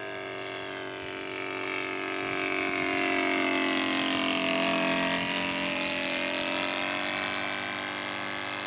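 Engine of a 1/3-scale radio-controlled Nieuport 17 model biplane making a fly pass. The buzzing engine note grows louder to a peak a few seconds in, dips a little in pitch as the plane passes, then fades.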